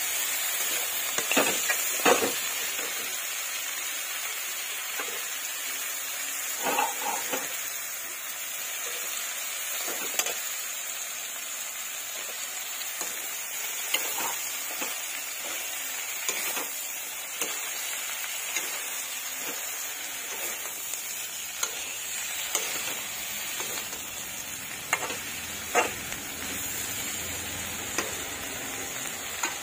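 Eggplant and other vegetable pieces frying in oil in a metal wok, giving a steady sizzle. Now and then the spatula scrapes and clinks against the pan as the pieces are stirred.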